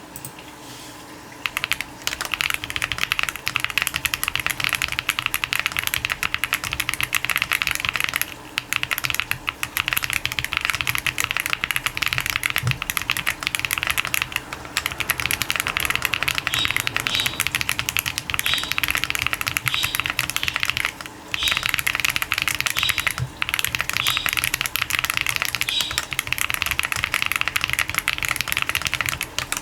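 Fast typing on a Zoom65 Essential Edition mechanical keyboard with Rococo long-pole tactile switches in an aluminium case with a polycarbonate plate: a dense run of sharp, high-pitched key clacks at each bottom-out. It starts about a second and a half in and pauses briefly three times.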